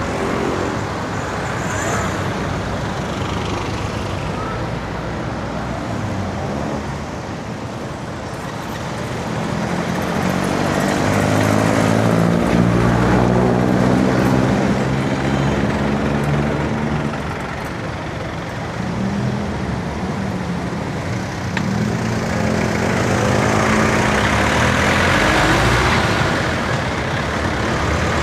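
Road traffic heard from a bicycle: the engines of cars and heavier vehicles run and pass close by, over a steady rush of road and wind noise. The engine sound swells twice, about halfway through and again near the end.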